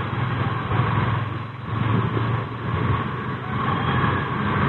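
Motorcycle engine running under way, its level rising and falling a little with the throttle.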